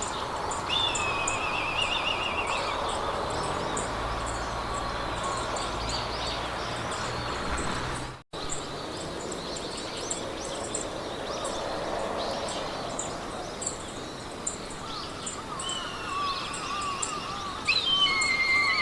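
Meadow ambience: songbirds singing warbling, trilling phrases over a steady rustle of wind through grass, with a regular run of short, high insect chirps. The sound cuts out for an instant about eight seconds in.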